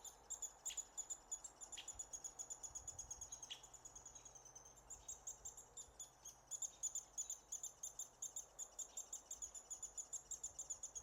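American three-toed woodpecker nestlings begging: a continuous, rapid, high-pitched chatter of about ten notes a second. Three short falling notes come in the first few seconds.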